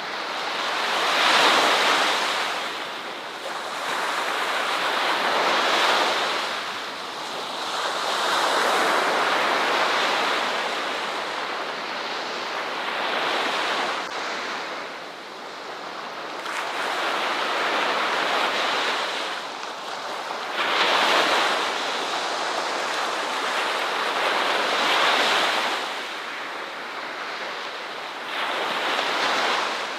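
Ocean waves breaking on a shore, a rushing hiss that swells and fades every three to five seconds.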